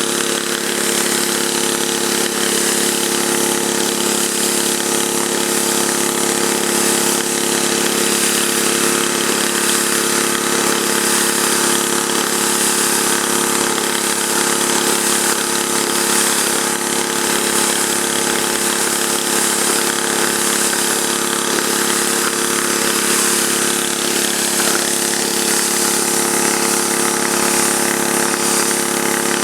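Pressure washer's petrol engine running steadily, with the hiss of water jetting from a water broom attachment onto pavement.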